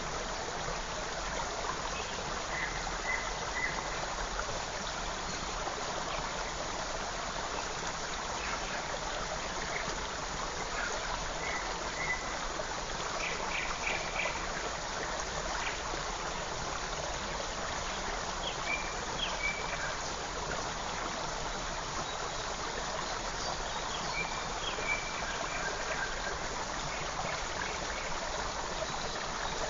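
Creek water running steadily, with faint, short bird chirps here and there.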